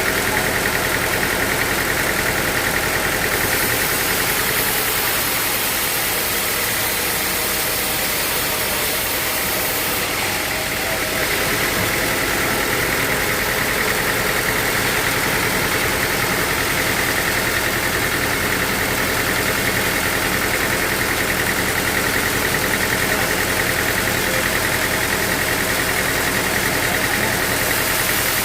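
Sawmill machinery running steadily: a continuous engine-like drone with a high whine on top.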